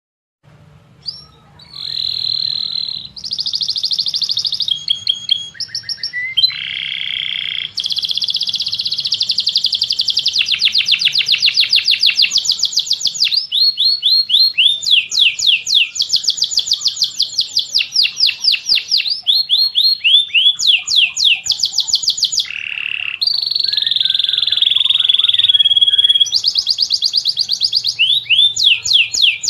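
Songbird song from linnet, white-rumped shama and canary recordings, starting about a second in: fast runs of repeated rising whistled notes, rolling trills and buzzy phrases, broken by a brief pause near the middle.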